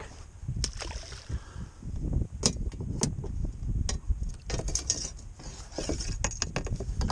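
Irregular knocks, clicks and clatter of gear being handled in a plastic kayak, over a low rumble.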